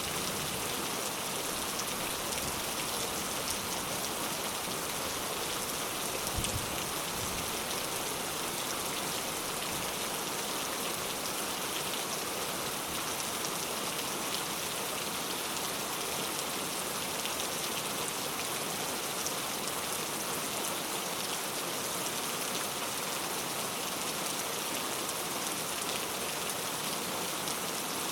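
Steady rain falling and pattering on surfaces, an even hiss with scattered individual drops, and a single soft low knock about six seconds in.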